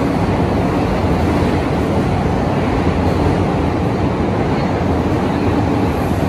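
JR electric commuter train running along an underground station platform: a steady, loud rumble of wheels on rails and running gear as the cars pass close by.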